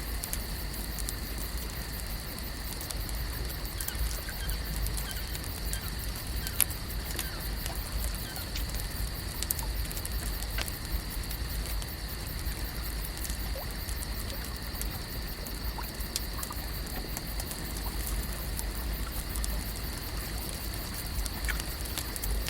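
Continuous lake nature ambience: a steady high-pitched hum under a low rumble, with many small scattered clicks and ticks.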